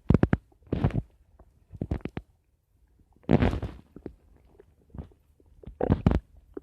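Human stomach gurgling and rumbling in five short, irregular bursts separated by quiet gaps.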